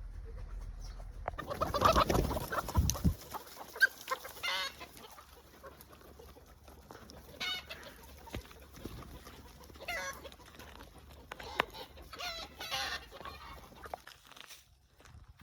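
Chickens clucking, short calls coming every couple of seconds, with a louder burst of noise about two seconds in.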